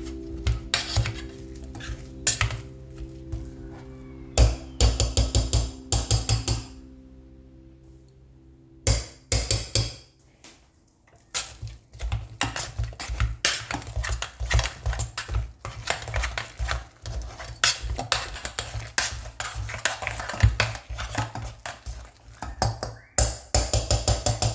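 Kitchen utensils and dishes clinking and knocking, with a quick run of repeated knocks in the second half, over soft background music.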